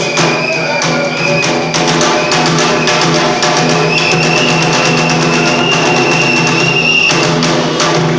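Bitchu kagura accompaniment: rapid drum strokes under a high held note and a steady low pitched tone.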